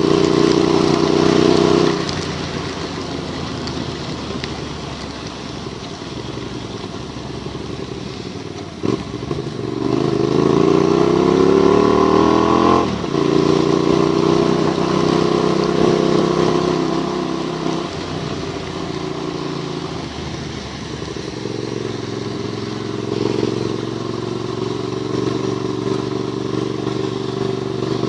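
Motorcycle engine running while riding on a wet road, with a steady hiss of tyres through water. About nine seconds in, the engine pulls up in pitch under acceleration for a few seconds, then drops back abruptly as the rider shifts gear.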